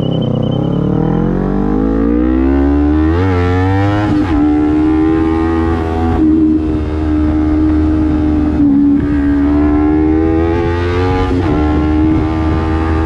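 Honda CBR250RR's engine through a Proliner slip-on exhaust, accelerating hard with the pitch rising and two quick breaks for upshifts over the first four seconds or so. It then holds a steady high-revving cruise, with a couple of brief lifts of the throttle.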